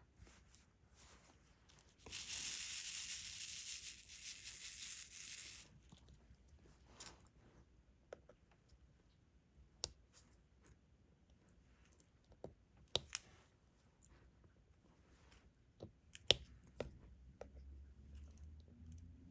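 A strip being peeled back off a diamond-painting canvas's adhesive, a long tearing peel of about three and a half seconds, followed by scattered small clicks and taps.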